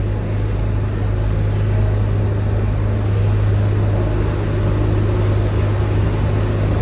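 Idling diesel locomotive engine, a steady low drone.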